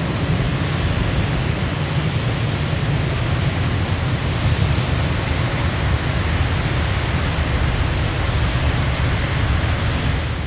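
Waterfall pouring steadily: a dense, even rush of water over a strong low rumble.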